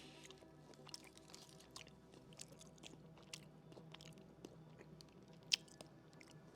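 Faint chewing of a milk tea KitKat wafer bar: irregular small crunches, with one sharper crunch about five and a half seconds in.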